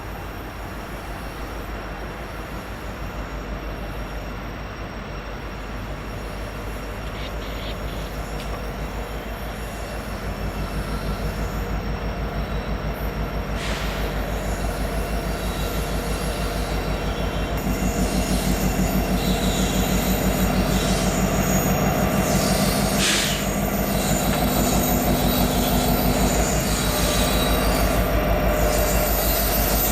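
Train rolling on the rails, its wheels and cars running steadily and growing gradually louder. Brief high-pitched wheel squeals come about halfway through and again a little later.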